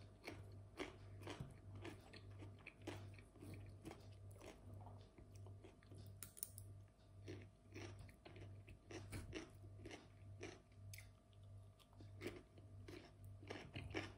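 Quiet chewing of crisp raw cucumber slices close to the microphone, a short crunch with each bite, about three every two seconds.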